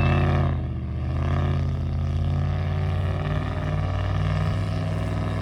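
Motor vehicle engine running at a steady, even speed.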